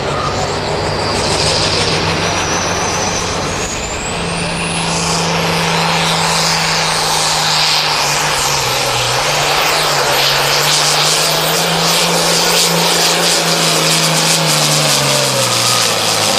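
Turbocharged Farmall 806 pulling tractor under full load pulling the sled. The engine note climbs a few seconds in and holds, over a high whistle that rises and stays up. The engine drops in pitch near the end as the run finishes.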